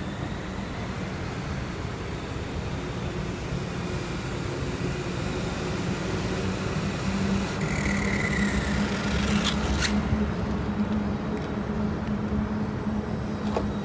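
Steady vehicle noise with a low hum that grows louder in the second half. About eight seconds in comes a brief falling whine, and a few sharp clicks follow around ten seconds and near the end.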